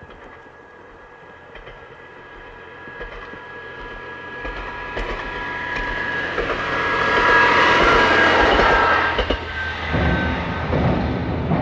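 Tsugaru Railway Tsugaru 21 diesel railcar approaching and passing: its running noise grows steadily louder with high steady tones, peaking about seven to nine seconds in. Then come sharp knocks of the wheels over the rail joints as it goes by.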